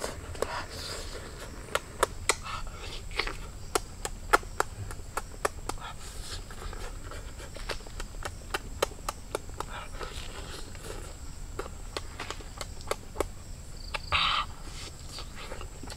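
Close-up eating sounds of someone chewing cooked duck egg: a stream of wet mouth clicks and lip smacks, with a brief voiced sound near the end.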